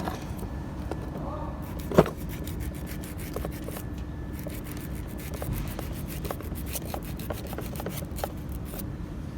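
Rubbing and scraping strokes on starter motor parts being cleaned by hand, irregular and repeated, with one sharp knock about two seconds in.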